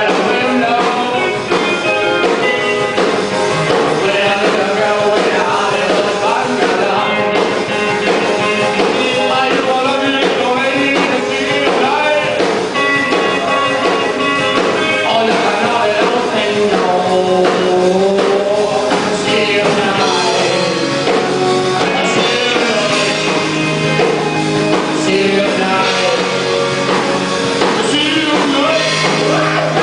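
Rock band playing a continuous up-tempo song, with a singer's voice over the band.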